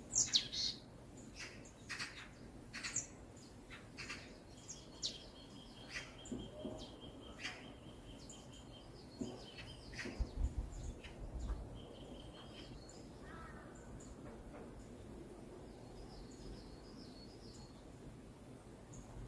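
Wild birds singing and chirping: many short sharp chirps in the first half, one bird holding a steady trill for a few seconds, then fewer and fainter calls over a steady background hiss. A brief low rumble about ten seconds in.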